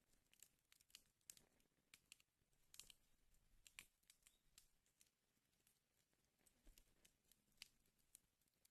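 Wood fire in a fireplace crackling faintly, with irregular sharp pops and snaps several times a second over a soft hiss.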